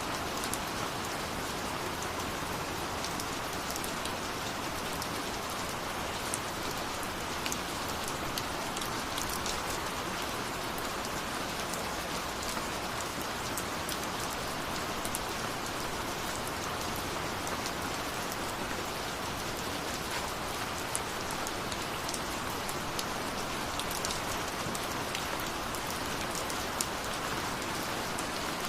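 Steady rain falling, with many separate drops ticking on a surface over the even hiss of the downpour.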